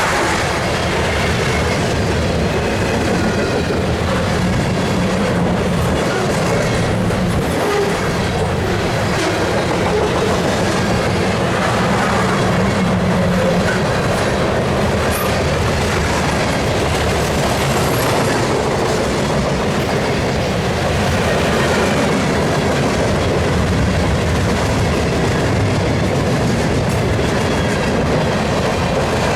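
Freight cars of a CSX train rolling past, a steady rumble with the wheels clacking over rail joints.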